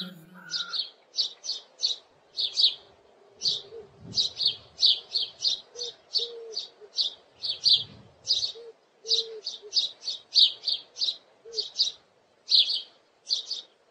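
Birds chirping: many short, high chirps, two or three a second, with now and then a faint short lower note underneath.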